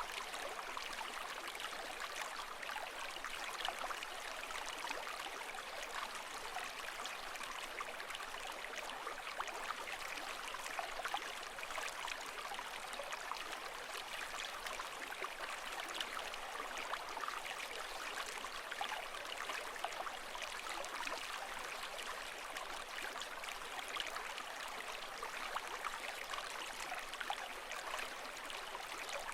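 Continuous water sound: an even, fizzing rush speckled with fine crackles, steady throughout without the rise and fall of breaking waves.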